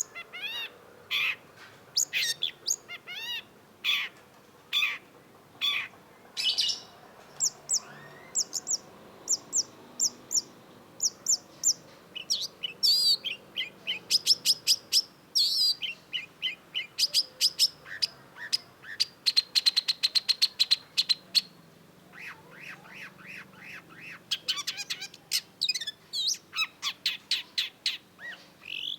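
Long-tailed shrike singing a fast, varied song. It starts with separate sharp notes, then moves into runs of quick high chirps and rapid trills with short pauses between phrases.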